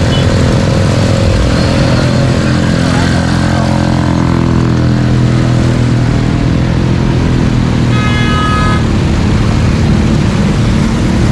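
Road traffic with a vehicle engine running close by under a steady rumble. A vehicle horn sounds once, for just under a second, about eight seconds in.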